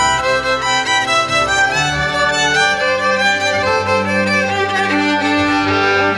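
Instrumental music led by a violin, with bowed strings and a bass line underneath.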